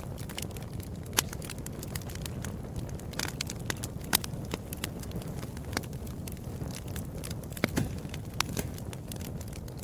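Wood fire burning in a fireplace: a steady low rumble of flames with frequent irregular crackles and sharp pops. A few louder pops come about a second in, about four seconds in and near eight seconds.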